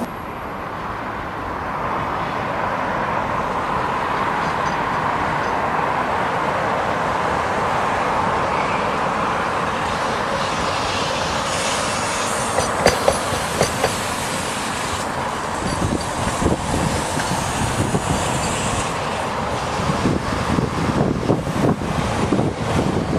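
Tram running on street track: a steady rumble of steel wheels on rail that builds over the first seconds. Sharp clacks over rail joints or points come in past the middle and grow more frequent near the end.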